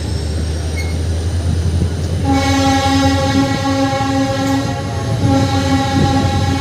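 A train rumbles steadily, and about two seconds in a locomotive horn starts sounding and holds on, one long continuous blast.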